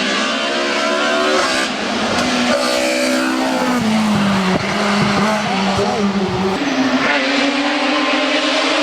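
Race car engine in a hill climb, revving up and shifting up twice early on, then dropping in pitch as it slows for a corner, and accelerating again near the end.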